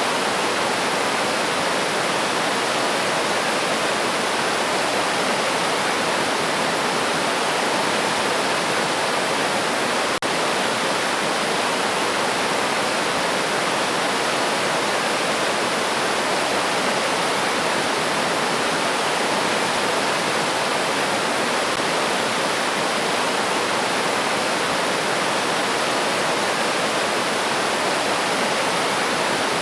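River water rushing in a steady, even roar.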